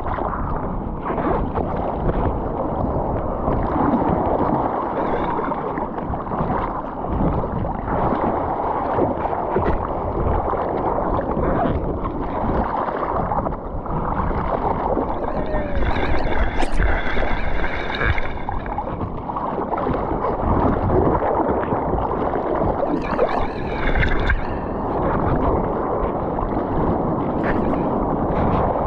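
Ocean water splashing and sloshing with wind buffeting the microphone, a continuous uneven rush with heavy low rumble.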